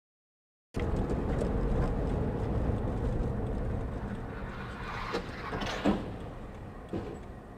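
A car driving, its engine and road noise a steady low rumble that starts abruptly about a second in and slowly fades, with a few short knocks near the end.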